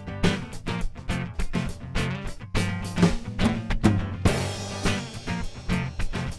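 Live instrumental music: guitar over drums playing a steady beat with bass drum and snare, and a cymbal crash about four seconds in.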